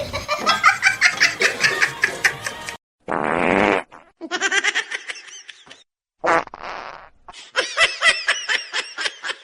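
Edited run of laughter-like voices, broken twice by a short raspy blast of noise, each under a second long.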